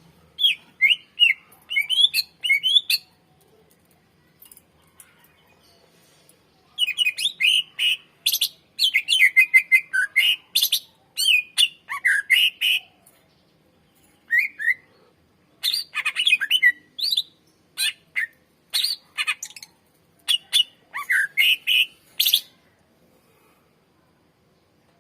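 Leafbird (cucak ijo) singing long runs of quick, sliding whistled notes mixed with sharp, harsh chattering notes. The phrases are loud and broken by pauses of about a second or two.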